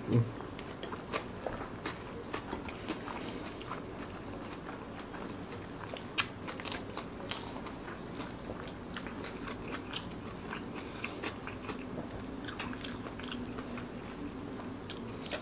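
Close-miked chewing and mouth sounds of a person eating rice and side dishes by hand, with irregular wet clicks and smacks, one sharper click about six seconds in.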